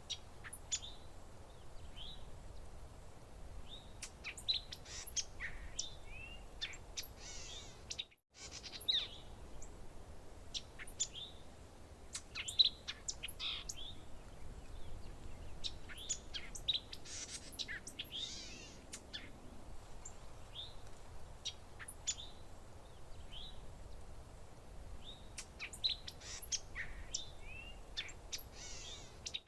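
Several songbirds chirping and calling in short, high notes and quick trills that come in scattered clusters, over a faint low background hiss. The sound drops out completely for a moment about eight seconds in.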